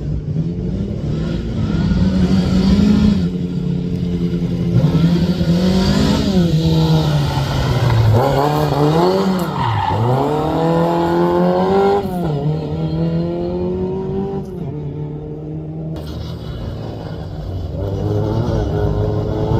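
Rally car engine revving hard, its pitch climbing and dropping again and again as it accelerates, changes gear and slows, then running quieter and steadier for a few seconds before picking up again near the end.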